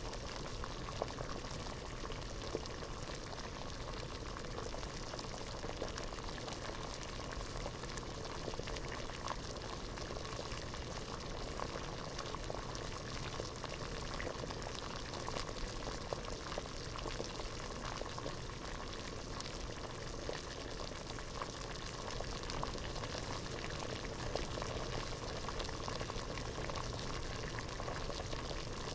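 Water boiling at a steady rolling boil in a pot, a dense, even bubbling with many small pops.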